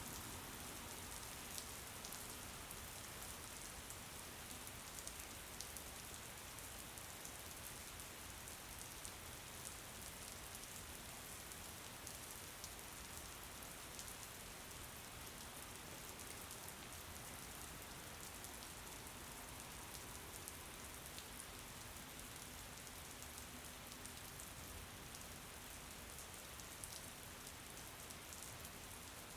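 Steady rain falling, a soft even hiss with many small drop ticks.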